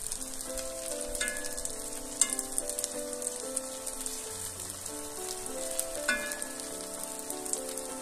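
Eggs, onion and tomato sizzling in oil in a frying pan, a steady crackle, with a metal spoon clinking against the pan a few times as it is worked around the eggs. Soft background music runs underneath.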